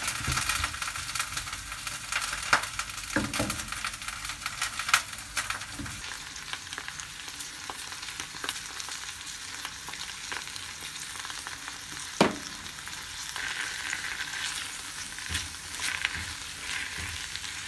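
Food frying in a pan with a steady sizzle, broken by scattered clicks and knocks of a utensil stirring against the pan.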